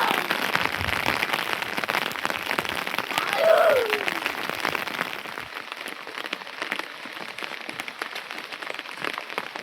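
Rain falling steadily, a dense patter of drops that eases a little after about five seconds. About three and a half seconds in, a short voice-like call falls in pitch.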